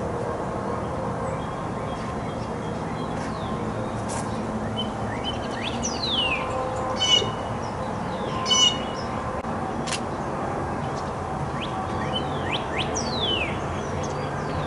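Backyard songbirds calling over a steady low rumble. Sharp downward-sliding whistles come about six seconds in and again near the end, with a couple of short harsh calls in between, and two sharp clicks.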